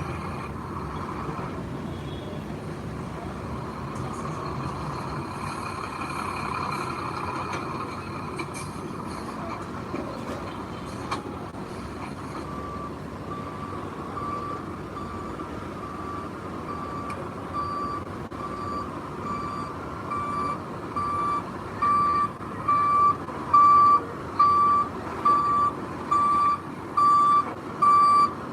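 A heavy machine's engine running steadily. About twelve seconds in, its reversing alarm starts beeping about once a second and grows louder toward the end.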